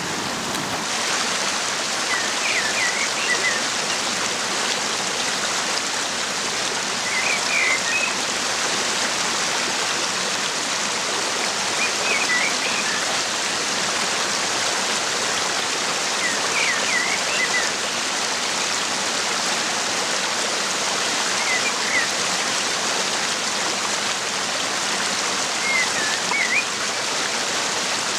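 Steady rushing hiss of water from the floodwater and rain. A songbird repeats a short, high chirping phrase about every four to five seconds.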